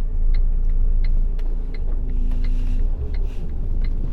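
Loaded truck's diesel engine and road noise rumbling steadily inside the cab while driving, with a light regular ticking about three times a second.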